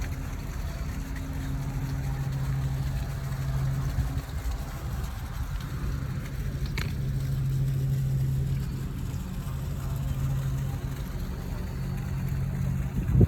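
Steady low rumble and hum of city traffic, with a brief high squeak about seven seconds in.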